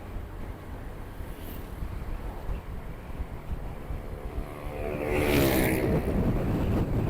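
Steady wind buffeting and road rumble of a motorcycle ride, picked up by an action camera's microphone. About five seconds in, a louder engine sweeps past close by, its note falling in pitch with a rush of air, as a vehicle passing the motorcycle does.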